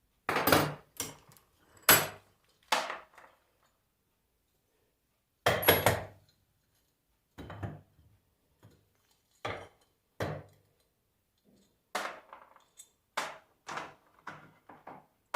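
Irregular metal knocks and clanks of hand tools and alternator parts on a workbench, some ringing briefly, as the alternator's housing screws are undone.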